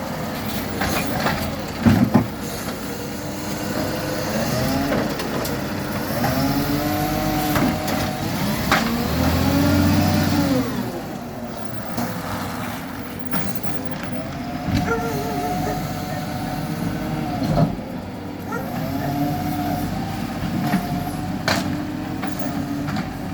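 Garbage truck engine revving up and falling back again and again, with a whine rising and falling alongside it, and a few sharp bangs, the loudest about two seconds in.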